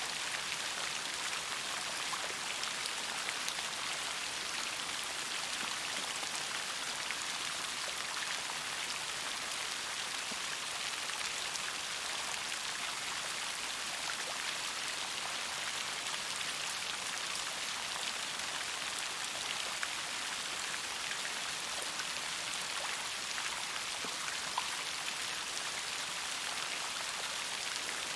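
Steady rain falling, many drops pattering on a surface as an even hiss with fine separate drop ticks.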